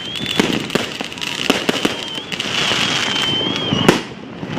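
Fireworks going off: rapid, irregular bangs with dense crackling, one loud bang near the end, and a high wavering whistle.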